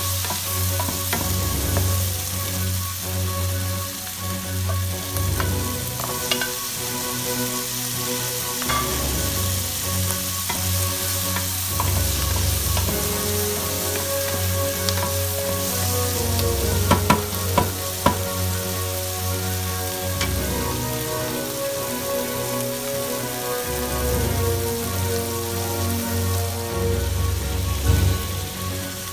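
Diced onion, garlic, bell peppers and jalapeño sizzling in a hot nonstick pan while being stirred with a wooden spatula. A few sharper knocks of the spatula against the pan come a little past halfway, and one more near the end.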